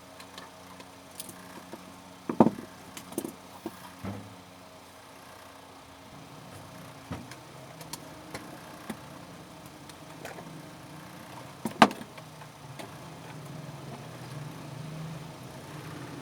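Scattered sharp clicks and knocks of small tools and parts being handled, the loudest about two and a half seconds in and again near twelve seconds, over a faint low hum.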